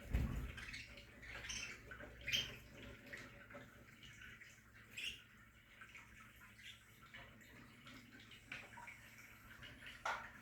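Budgerigars in an aviary giving short, scattered chirps, faint and irregular, with a brief low thump at the start.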